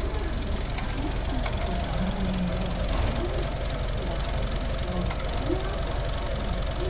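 Toyota 2JZ-GTE twin-turbo inline-six running steadily at idle, an even low rumble with a steady high whine above it.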